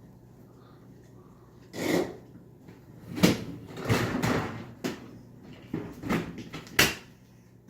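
Kitchen drawers and cupboards opening and shutting while a dishwasher is unloaded: about half a dozen sharp knocks and short rattles, spaced irregularly and closest together in the middle.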